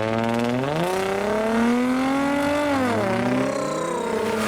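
Modified car's engine pulling away: its note climbs steeply, holds, drops sharply near three seconds in as the throttle comes off or it shifts, then climbs again.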